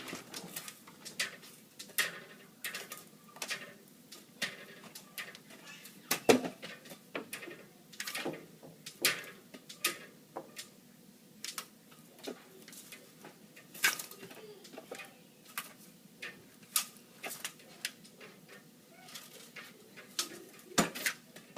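An animal's short, sharp clicking noises, one or two a second at irregular intervals.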